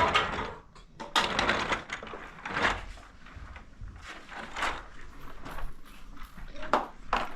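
Irregular handling noises: scrapes, rustles and knocks, several louder strokes spaced a second or two apart.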